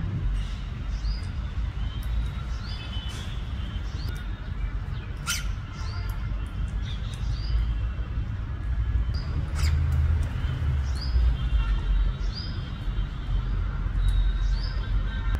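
A bird's short, high chirps repeating about once a second over a steady low rumble, with two sharp clicks, one about five seconds in and one about ten seconds in.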